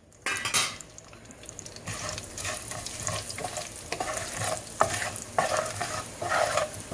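Spices frying in hot oil in a kadai for a tadka: a steady sizzle that starts suddenly about a quarter second in, with a spoon stirring and scraping against the pan in short knocks throughout.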